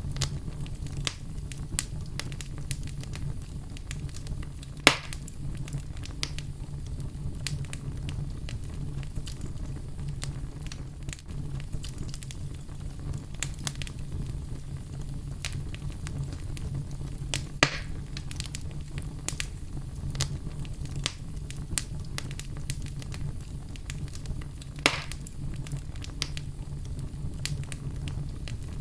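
Wood fire burning in a fireplace: a steady low rumble of flames with frequent small crackles, and three louder pops, about 5 s in, near the middle and near the end.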